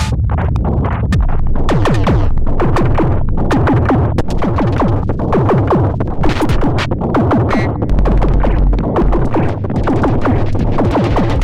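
Erica Synths Perkons HD-01 drum synthesizer playing a dense electronic drum pattern: rapid repeating percussive hits over a continuous low bass, with a heavier deep bass note about eight seconds in.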